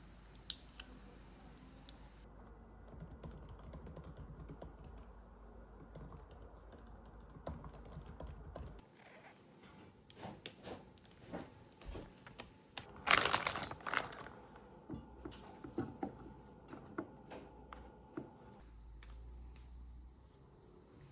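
Irregular light clicks and taps of small objects being handled, with a louder rustle about thirteen seconds in. A low hum runs underneath for the first half.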